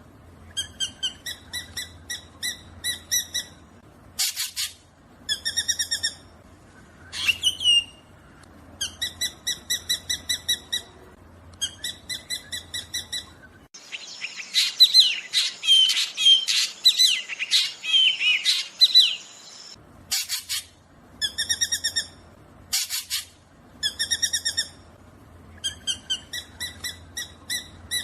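Black drongo calling: runs of short, quickly repeated pitched notes, broken by a single rising note about seven seconds in and, around the middle, several seconds of busy, jumbled chattering.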